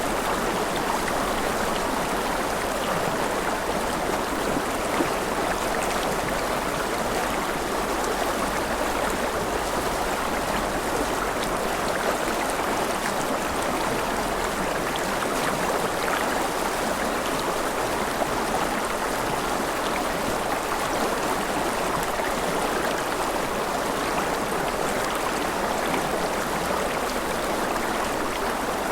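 Mountain river flowing over rapids: a steady rush of water.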